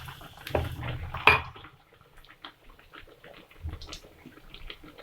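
Dishes and utensils clattering: a couple of sharp knocks about a second in, then scattered light clinks.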